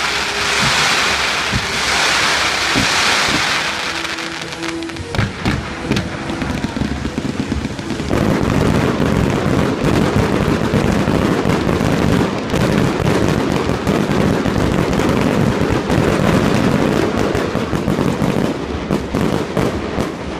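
Fireworks display. For the first few seconds shells launch with a loud hiss, then come scattered bangs. From about eight seconds in there is a dense, continuous crackle of rapid pops as crackling shells burst overhead.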